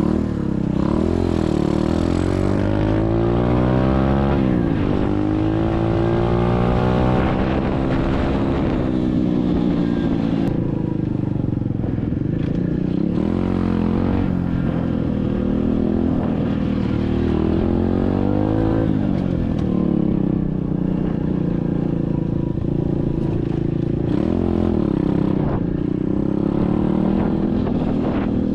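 SSR 125cc dirt bike's single-cylinder four-stroke engine running under way, its pitch repeatedly climbing and dropping as it revs up and falls back through the gears.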